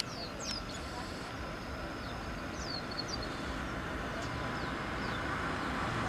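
Small birds giving scattered short, high chirps that sweep downward in pitch, over a steady low rumble and hiss of outdoor background noise.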